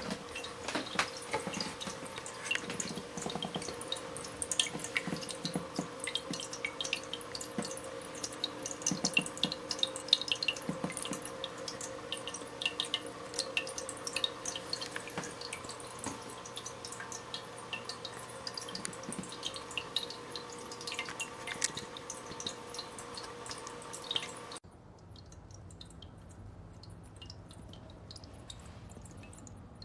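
Pioneer Pet Raindrop ceramic pet fountain: water dripping and splashing steadily into its bowl over a steady pump hum. About 25 seconds in it cuts abruptly to a quieter low hum.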